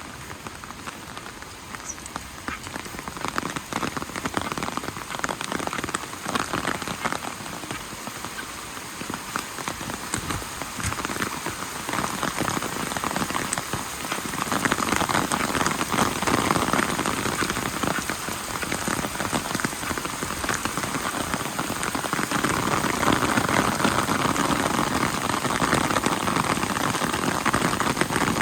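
Rain falling steadily: a dense patter of drops on surfaces, growing heavier about halfway through.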